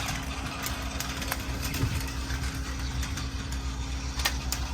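Plarail battery-powered toy train running along plastic track: a steady motor and gear hum, with a sharp click right at the start and scattered light clicks from the wheels and track.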